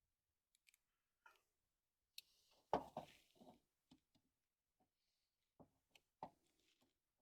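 Sparse clicks and small knocks of hands working an old, brittle rubber fuel hose off a metal fuel line, the loudest a short crunchy cluster about three seconds in, otherwise near silence.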